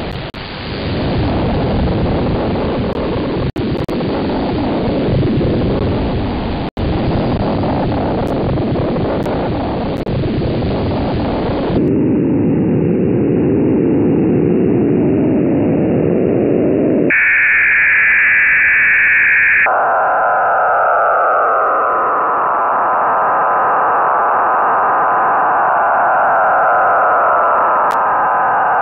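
Shortwave radio receiver tuned to 4633 kHz, giving hiss and static that narrows to a duller rush about twelve seconds in. A shrill tone band follows for a few seconds, and then an unidentified signal: a steady whistle with sliding, warbling tones beneath it.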